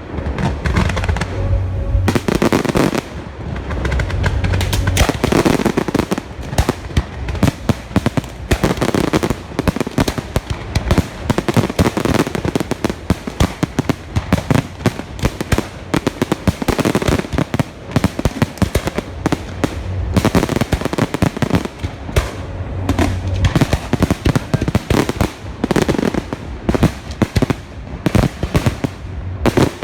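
Large display fireworks going off in quick succession: a dense, continuous string of shell bursts and crackling bangs, several a second, with deeper booms now and then.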